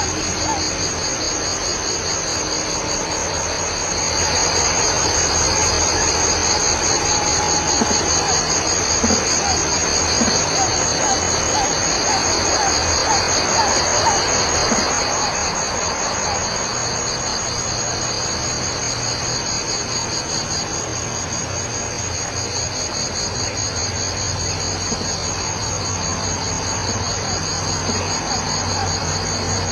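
Steady chorus of insects, a continuous high pulsing trill that holds at one pitch throughout.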